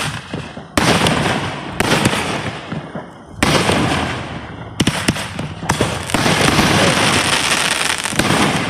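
Large fireworks shells bursting in quick succession: about six sharp bangs, each trailing away, merging into a dense continuous crackle over the last few seconds.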